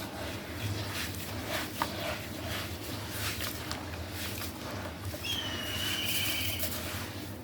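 Black stone being crushed and crumbling in water, with a run of crackling and crunching. Near the end a bird gives one drawn-out whistled call.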